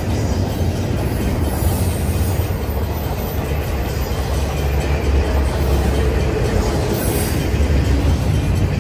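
Double-stack intermodal well cars of a freight train rolling past close by, a steady low rumble of steel wheels on rail.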